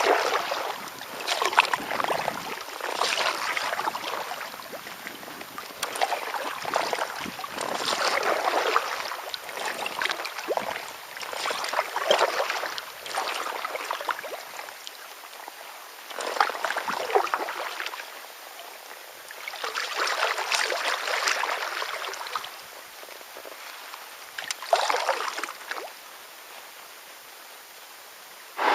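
Kayak paddle strokes: the blade dipping and pulling through the water with a splash and swish roughly every one and a half to two seconds, the strokes coming less often in the second half.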